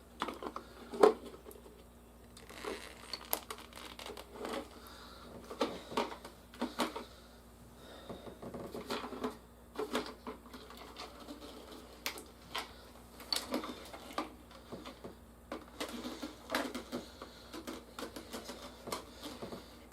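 Plastic action figures and toy vehicles being handled and set down: irregular clicks and knocks, the loudest about a second in.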